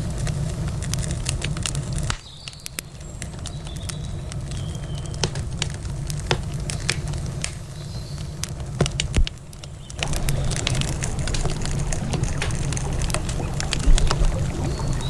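Wood campfire crackling, with frequent sharp pops and snaps, over a low steady rush of river water. The low rush drops away about two seconds in and comes back about ten seconds in, leaving the fire's crackle on its own in between.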